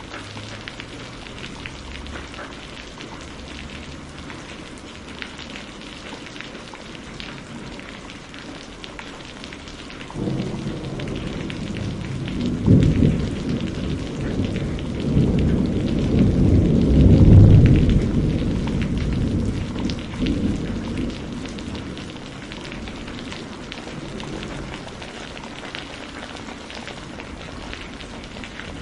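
Steady rain falling, with a long low roll of thunder that comes in about ten seconds in, swells to its loudest in the middle and dies away about two-thirds of the way through.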